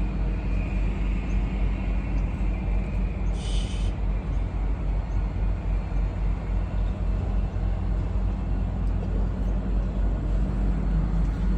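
Truck engine idling with a steady low rumble, and a short high squeak about three and a half seconds in.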